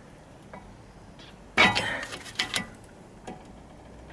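Metal tools and brake parts clanking together: one sharp, ringing clang about a second and a half in, then a few lighter clinks.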